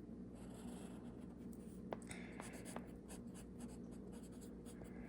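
Faint scratching of a broad-nib fountain pen writing on paper, with a few light ticks about halfway through.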